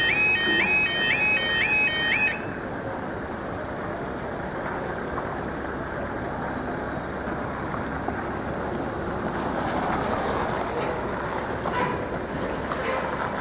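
Level crossing audible warning yodelling in a repeating high two-tone warble, about two cycles a second, that cuts off about two seconds in. This is typical of the alarm falling silent once the barriers are fully down. Steady road traffic noise continues after it.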